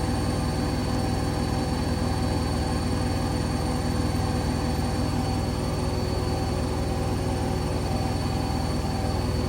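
Hoover Link washing machine on a full-speed 1400 rpm spin, a steady drone from the drum with a constant high whine from the motor.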